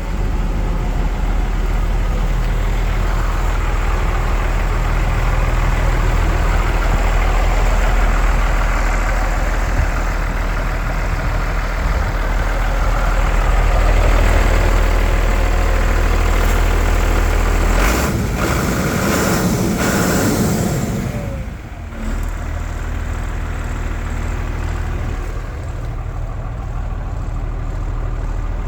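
Iveco Eurocargo 80E15's six-cylinder turbo diesel engine running with a steady low hum. About eighteen seconds in, a rushing noise lasting about three seconds takes over while the engine hum drops away. The engine then runs on steadily, a little quieter.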